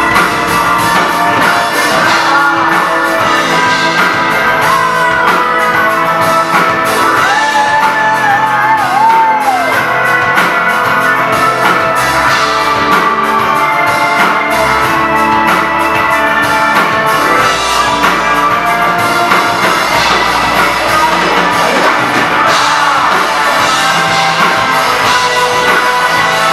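Live rock band music played loud and steady, with a wavering lead melody line about a third of the way in.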